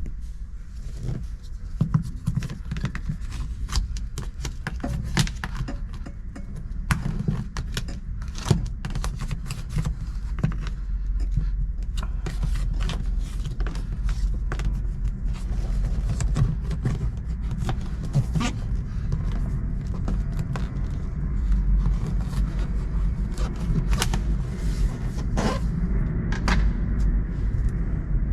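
Irregular clicks, knocks and scraping over a steady low rumble: handling noise from hands-on work.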